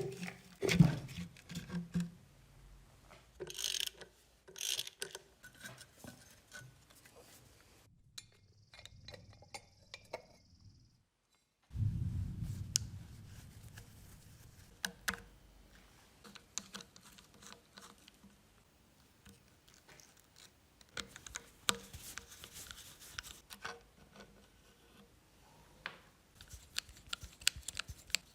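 Scattered clicks, taps and scrapes of hand work with tools and small metal parts, with a brief dead-silent break near the middle, where the video cuts.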